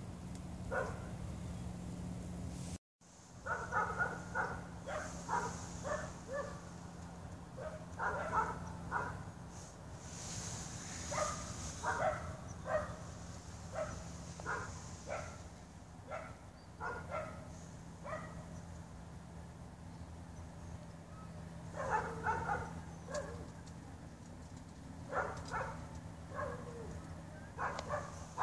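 A dog barking repeatedly in clusters of short, sharp barks, with pauses between the clusters. A steady low hum runs underneath.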